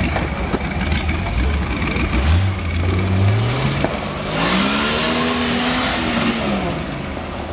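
A vehicle engine running low, then revving up about two seconds in. A longer rev rises and falls with a loud rush of noise from about four to six and a half seconds.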